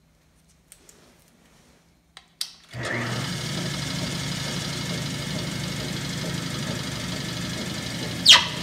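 A Bennett 541 gas pump's electric motor starts about two and a half seconds in after a few light clicks, and then runs steadily, driving the freshly rebuilt rotary vane pump through a V-belt, which is now drawing suction. Near the end there is a brief sharp squeal falling in pitch.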